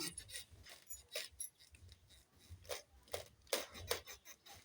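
Keys being handled: scattered light metallic clicks and clinks with a few soft knocks, loudest a little past the middle.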